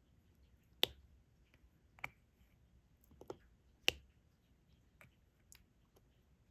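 Diamond painting pen pressing resin drills onto the sticky canvas: about six sharp, irregular clicks, roughly one a second, two of them louder than the rest.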